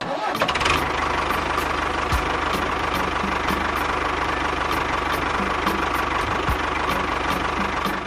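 An engine running steadily at idle with a faint regular ticking about two or three times a second; it cuts in suddenly.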